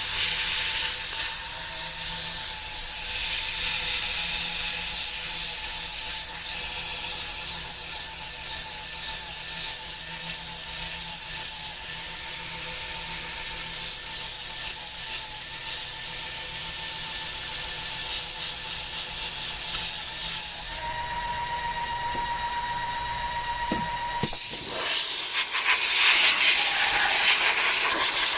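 A machine running steadily, giving a constant hiss with a fixed whine; the sound changes abruptly about 24 seconds in.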